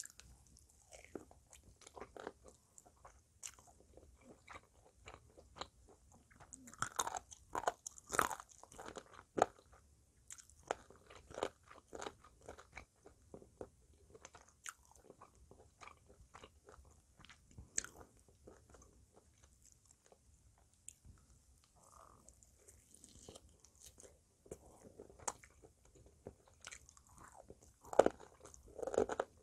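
Close-miked biting and chewing of smoked pork spare ribs: irregular clicks and mouth sounds of eating, with louder bites about seven to nine seconds in and again near the end.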